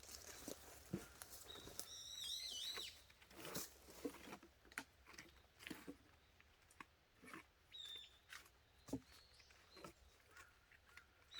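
Faint outdoor quiet with a few short, wavering bird calls, a cluster of them about two seconds in and single ones later, over scattered soft knocks and rustles.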